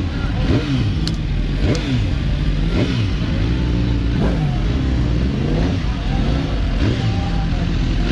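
Several motorcycle engines revving up and down at once, their pitches rising and falling over each other above a steady low rumble.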